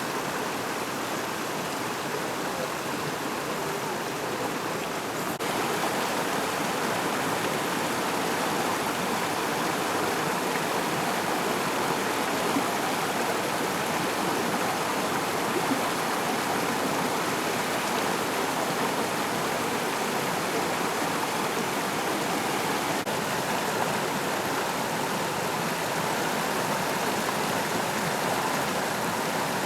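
McCloud River water rushing in a steady wash, a little louder from about five seconds in.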